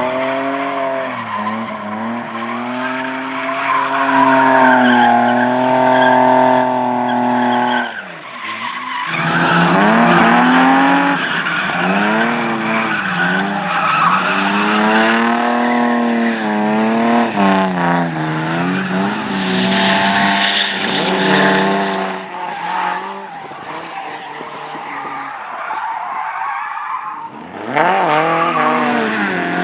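Rally cars driven hard, engines revving up and dropping back through the gears, with tyre squeal and skidding. The sound breaks off abruptly twice, about eight seconds in and near the end, each time picking up with another car.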